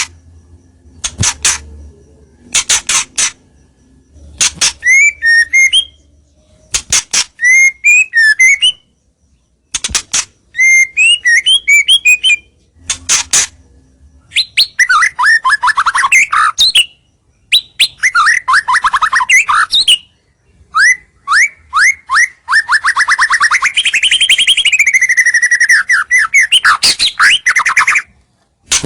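White-rumped shama (murai batu) singing loud, varied song phrases: sharp short notes first, then whistled phrases with rising and falling notes, then long rapid trills, the longest running several seconds near the end.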